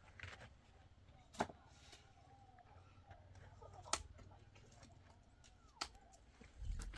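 Three sharp single knocks, about two seconds apart, with a low steady rumble underneath.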